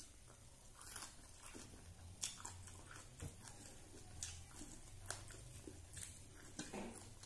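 Faint mouth sounds of someone eating rice by hand: chewing with short wet lip-smacks and clicks about once a second, over a low steady hum.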